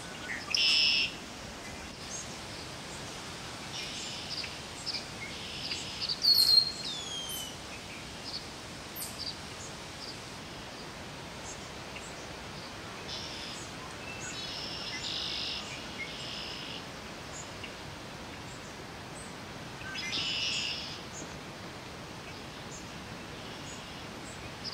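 Wild songbirds calling: scattered short chirps, a few buzzy trills (about a second in, around the middle, and later on), and a loud whistled note sliding down in pitch about a quarter of the way through, over a steady faint hiss.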